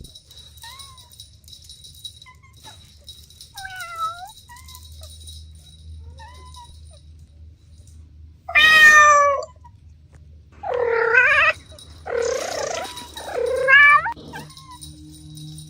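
Cats meowing: a few faint short mews in the first seconds, then one loud meow about nine seconds in and three more in quick succession near the end.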